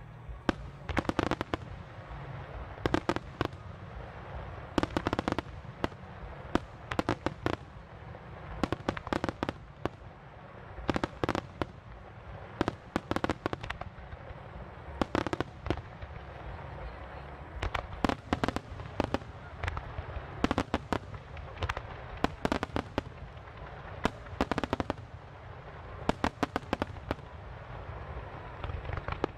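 Fireworks display: many aerial shells going off in a wide line, their sharp bangs coming in quick clusters every second or two.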